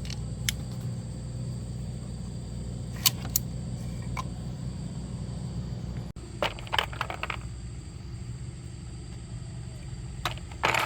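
Steady low hum with scattered sharp clicks and light taps of tools and metal parts being handled, with a quick cluster of them a little after halfway and again near the end.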